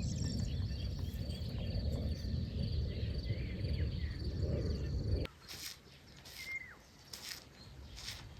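Birds chirping in a field over a steady high insect buzz, with a loud low rumble underneath. About five seconds in the rumble and the buzz cut off abruptly, leaving scattered bird chirps and calls, one a short sliding whistle.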